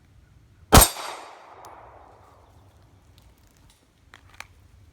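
A single shot from a Glock 42 .380 pistol, about a second in, its report dying away over about two seconds. Two faint clicks follow near the end.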